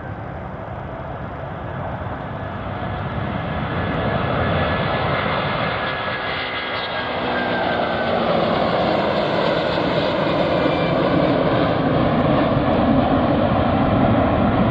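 Airplane engines growing steadily louder as an aircraft moves close by, with a whine that falls in pitch about halfway through.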